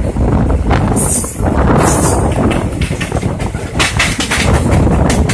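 Indian Railways passenger train running at speed, heard through an open coach window: a steady rumble of wheels on rail, with a rapid clicking clatter over the track in the second half and two short bursts of hiss about one and two seconds in.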